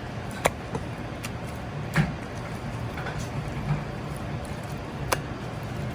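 Steady commercial-kitchen noise with a low hum, broken by three sharp clinks or knocks of utensils: one about half a second in, one about two seconds in and one near the end.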